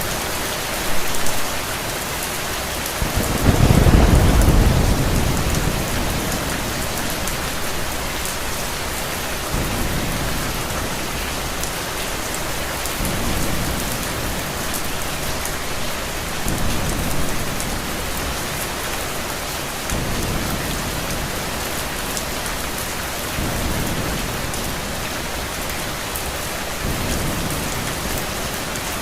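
Steady heavy rain hiss with thunder: one loud low rumble rolls in about three seconds in and fades over a few seconds, followed by softer low rumbles swelling and dying every few seconds.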